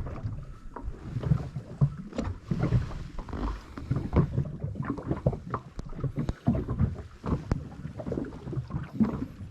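Water lapping and slapping against the hull of a small drifting boat, with irregular light knocks.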